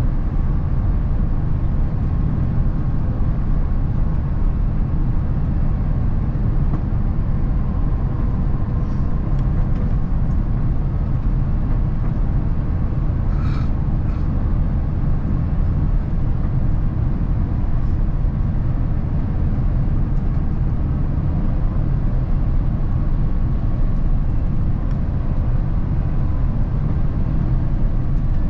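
Steady rumble of engine and airflow noise inside the cabin of an Airbus A350-1000 airliner during its descent to landing, with a brief higher click about halfway through.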